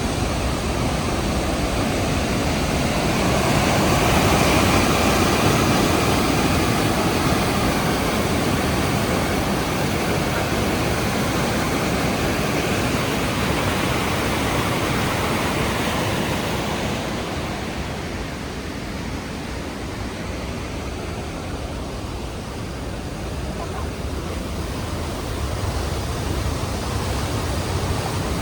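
Rushing water of the Rhine Falls, a steady roar of noise. It swells a few seconds in and drops lower about two-thirds of the way through.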